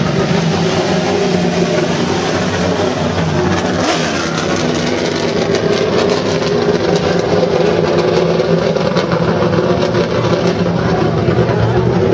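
Dodge Challenger drift car's engine held at high revs, rising and falling as the car slides through a drift, with scattered crackles through the middle.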